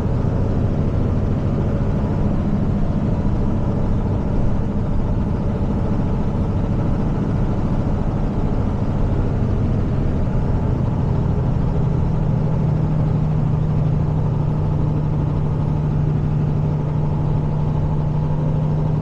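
Heavy tow truck's diesel engine and road noise heard from inside the cab while driving with a truck in tow: a steady drone, its low hum growing stronger about two thirds of the way in.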